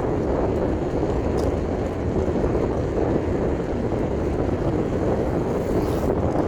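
Steady wind noise buffeting the microphone while riding a bicycle, a dense low rushing with no distinct tones.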